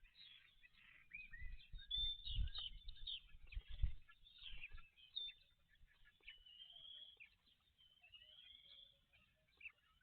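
Small wild birds calling and chirping, with short quick notes and a few longer whistled phrases. Low dull thumps come between about one and a half and four seconds in.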